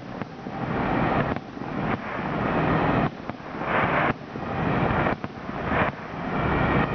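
Aerial fireworks shells bursting in quick succession: about seven sharp bangs, roughly one a second, with crackling and hiss between them.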